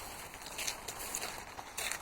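Footsteps crunching irregularly on a path, over a steady patter of rain.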